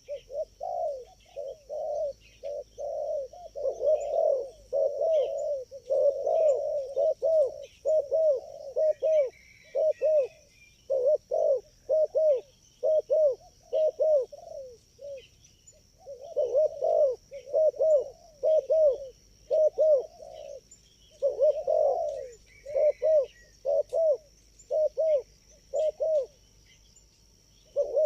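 Spotted doves (tekukur) cooing in quick runs of repeated notes, with brief pauses about fifteen seconds in and near the end. A steady thin high tone and faint small chirps sound behind them.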